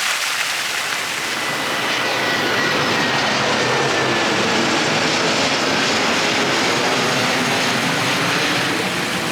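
Aircraft passing overhead: a steady rushing noise with a faint whine that slowly falls in pitch during the first few seconds.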